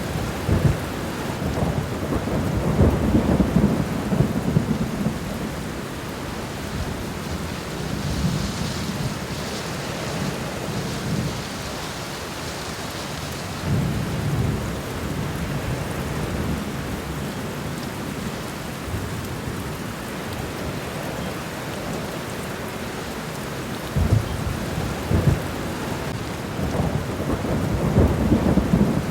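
Steady rain falling on a garden floor, with several low rumbles that swell and fade through it.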